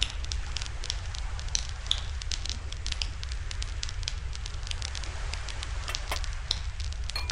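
Wood campfire crackling, with frequent irregular sharp pops and snaps, over a steady low rumble.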